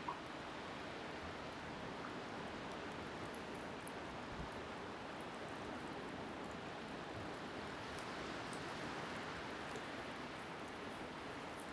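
Steady rushing of wind and surf at the shore, with the faint scattered pops of a wood bonfire crackling.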